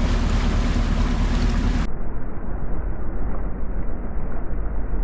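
Ship's engine running steadily in a low rumble, with wind noise on the microphone. About two seconds in, the sound cuts abruptly to a duller, muffled recording of the same low rumble.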